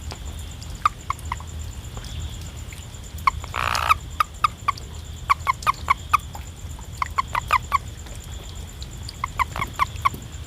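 Frog calling in runs of three to five short, sharp notes, the runs repeating every second or two. A brief rush of noise comes about three and a half seconds in.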